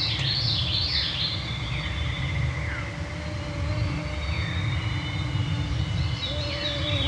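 A veery sings its swirling song twice, once in the first second and again near the end. Mosquitoes whine close to the microphones, starting again shortly before the second song. A steady low rumble runs underneath.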